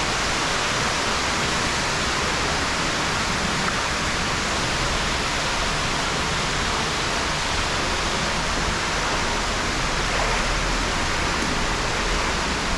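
Waterfall: water falling and rushing as a steady, unbroken roar.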